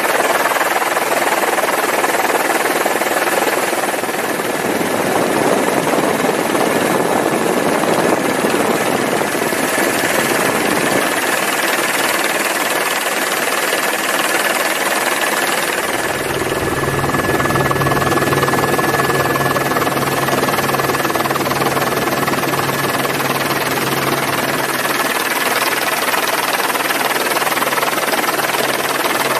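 Steady, loud noise of a ship riding out a storm: a continuous rush of wind and sea with a thin steady whine, and a low engine hum that comes in about halfway.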